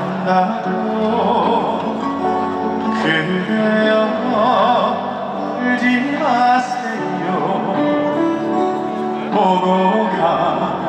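Live band playing a slow, gentle trot ballad: sustained chords under a melody line with wide vibrato.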